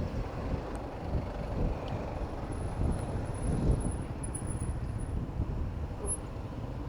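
Road traffic noise heard from a moving bicycle, a dense uneven rumble with wind buffeting the microphone. A faint thin high whine runs for about three seconds in the middle.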